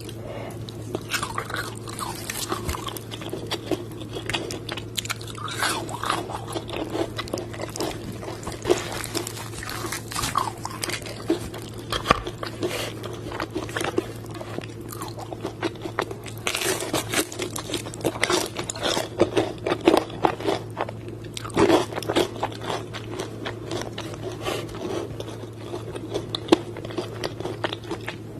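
Close-up crunching and chewing of crispy fried chicken coating: continuous irregular crackly crunches from bites and chewing.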